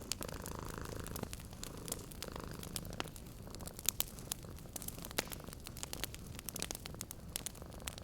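Wood fire crackling with scattered sharp pops and snaps, over a cat's steady low purr.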